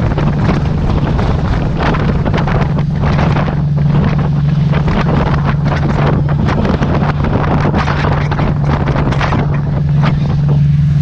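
A boat's engine running with a steady low drone, under loud, gusty wind buffeting the microphone.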